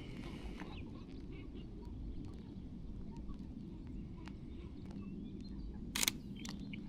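Outdoor ambience: a steady low rumble with faint, scattered bird calls. A few light clicks run through it, and one sharp, louder click comes about six seconds in.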